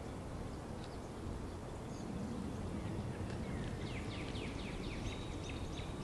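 A small bird calling: a quick run of short, downward-sliding chirps about four seconds in, over a steady low outdoor rumble.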